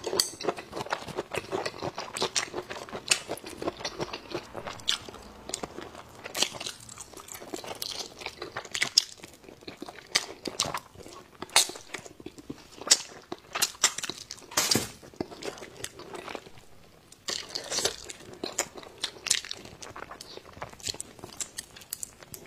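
Close-miked chewing and biting of braised pig tail and pork, with wet mouth sounds and many irregular crunching clicks.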